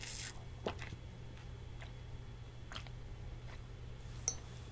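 Soft, quiet chewing of a mouthful of cheesecake, with a few faint small clicks scattered through.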